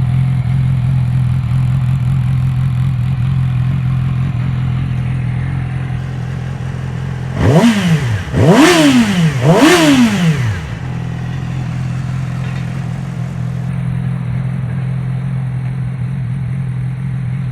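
2011 Yamaha YZF-R6's 599 cc inline-four engine idling steadily, blipped three times in quick succession about halfway through, each rev rising and dropping straight back, then settling to idle again.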